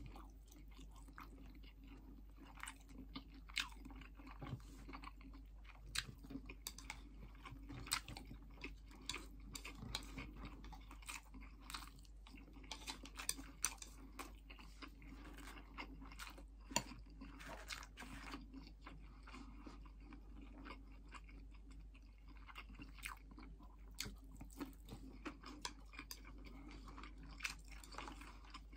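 A person chewing mouthfuls of miso-marinated karaage (Japanese fried chicken) and rice, with irregular sharp clicks of chopsticks against the rice bowl.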